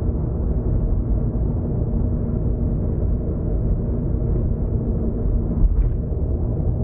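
Steady low rumble of a car driving, its road and engine noise heard from inside the car, with a faint tick about six seconds in.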